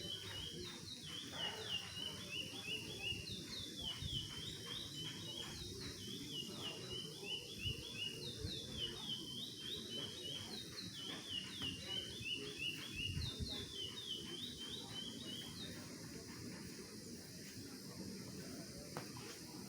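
Caged songbird singing: quick runs of sharp chirped notes repeated phrase after phrase, stopping a few seconds before the end, over a steady low background rumble.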